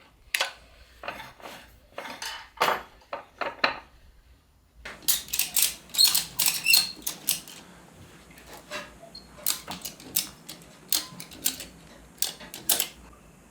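Metal hand tools and steel gearbox parts clinking and clicking in irregular sharp taps while the Land Rover Series gearbox is being worked on, the box locked in two gears for tightening its end bolt and nut.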